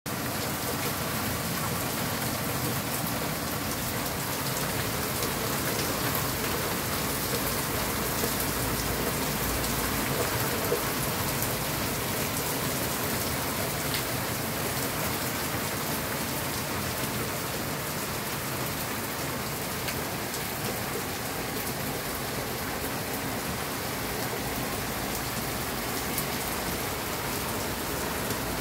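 Heavy rain pouring down in a steady hiss, with the patter of drops hitting surfaces.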